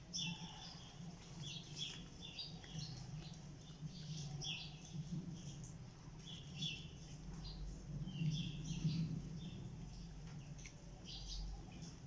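Small birds chirping: short, high chirps in quick irregular runs, over a low steady hum.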